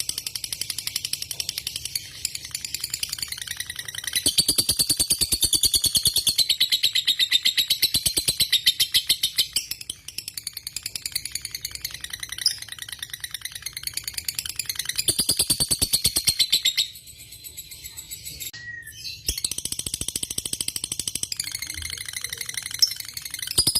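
Lovebird singing a long chattering trill of very rapid repeated high notes, the drawn-out 'ngekek' song judged for its duration in fighter lovebirds. It breaks off briefly about two-thirds of the way through, then resumes.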